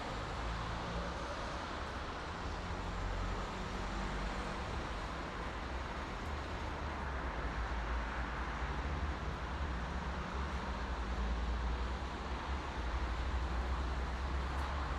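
Steady highway traffic at night: a continuous wash of tyre and engine noise with a deep low rumble, no single vehicle standing out.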